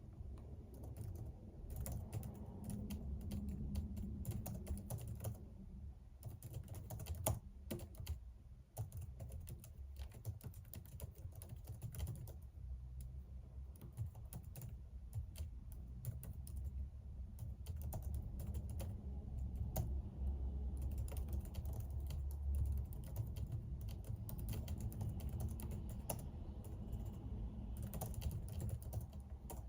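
Typing on a computer keyboard: quick runs of keystroke clicks with brief pauses, over a low rumble.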